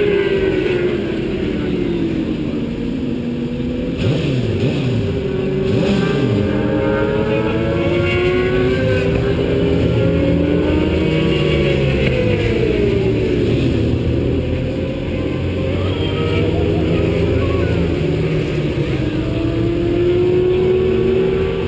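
Onboard sound of a vehicle's engine at speed on a race track, its pitch climbing and dropping as it accelerates and shifts, with a run of quick falling pitches about four to six seconds in as it slows for a corner. Wind and road noise run under the engine.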